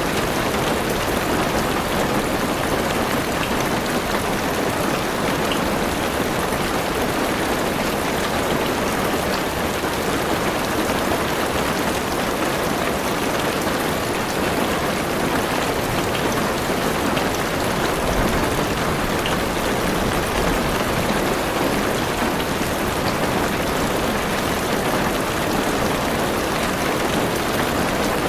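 Heavy rain falling steadily on a car's roof and windows, heard from inside the car: an even, unbroken hiss of drops.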